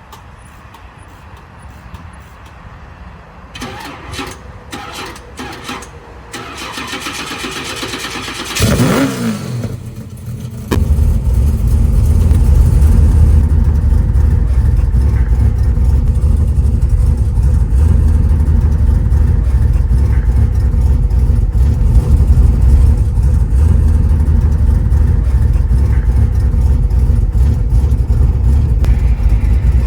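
1955 Chevy Bel Air's V8 being cold-started: a few knocks, then cranking with a falling whine, and the engine catches about eleven seconds in. It then settles into a loud, steady idle rumble.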